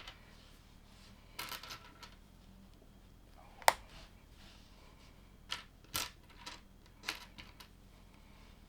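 Small plastic LEGO pieces clicking and rattling as they are handled and pressed together, in irregular little clusters with one sharp, louder click near the middle.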